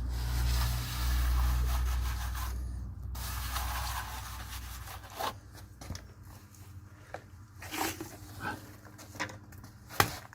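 Fresh plaster being worked on an adobe wall with a hand tool: rough rubbing and scraping strokes over a low rumble for the first few seconds, then lighter scattered scrapes and small knocks.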